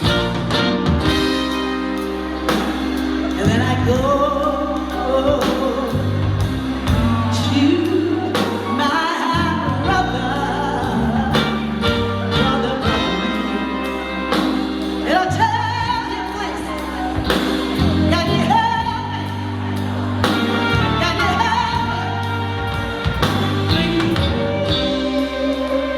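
A woman singing a melody of long held notes over a backing track with a sustained bass line.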